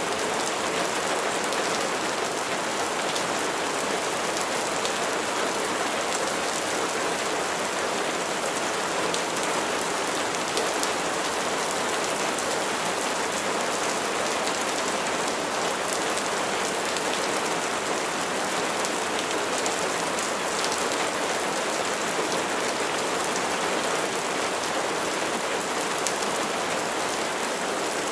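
Steady rain falling on a surface: an even hiss dotted with the small ticks of individual drops, unchanging throughout.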